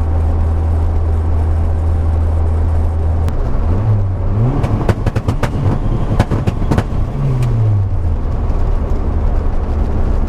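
Engine and road noise of a turbocharged car under way, heard from inside. About three and a half seconds in, the steady engine drone changes, with a tone rising and later falling, and a run of sharp clicks comes through the middle.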